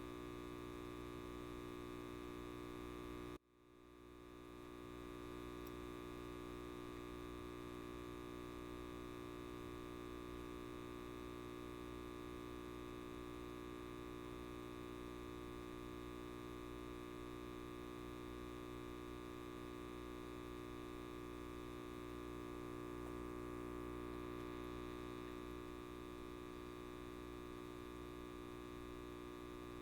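Electric light bulb buzzing: a steady mains hum with many overtones. About three and a half seconds in it drops out almost completely for a moment, then swells back within about a second.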